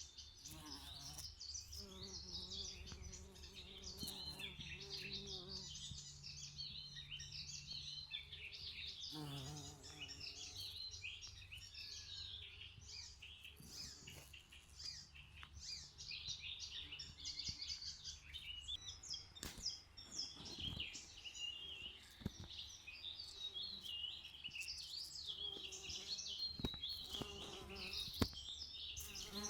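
Several songbirds singing at once, a continuous chorus of rapid high chirps and trills over a faint low background hum.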